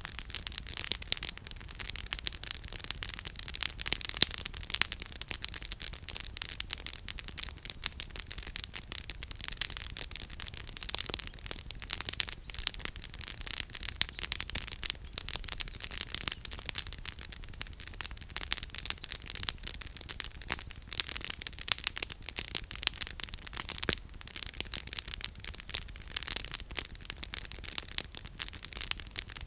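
Campfire of firewood crackling and popping: dense, irregular sharp snaps throughout, over a faint steady low rumble.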